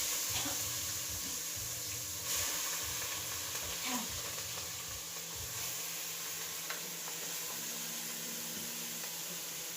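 Goat meat sizzling in a hot pot for curry goat, loudest just after it goes in and then settling to a steady sizzle, with a few light clicks.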